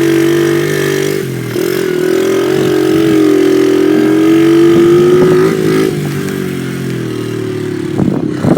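Dirt bike engine running under way, its revs dipping about a second in, climbing gradually, then falling off around six seconds in. A few clattering knocks come near the end.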